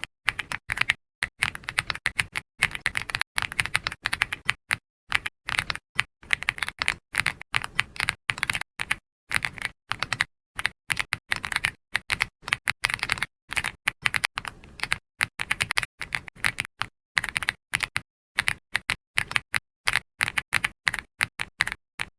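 Computer keyboard typing: quick runs of keystroke clicks broken by short pauses.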